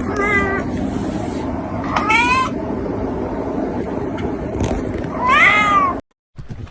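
A domestic cat meowing three times, each meow rising and then falling in pitch, over a steady background noise. The sound cuts off abruptly near the end.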